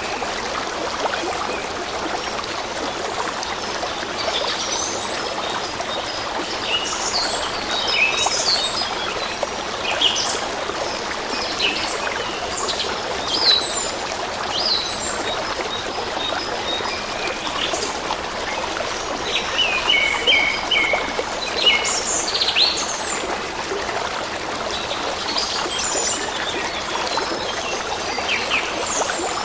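A steady flowing stream, with songbirds chirping and trilling over it in many short, scattered calls.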